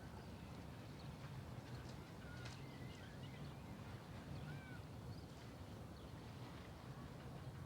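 Faint outdoor ambience: small birds chirping now and then, short rising and falling chirps, over a low steady hum.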